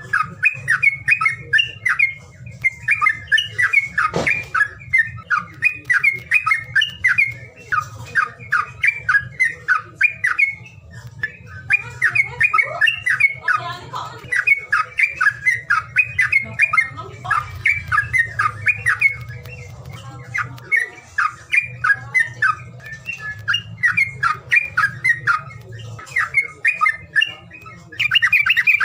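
Songbird singing a fast, chattering song of short repeated notes in phrases, with a denser trill near the end: a pancingan calling track played to stir caged birds into song. A faint steady low hum lies under it.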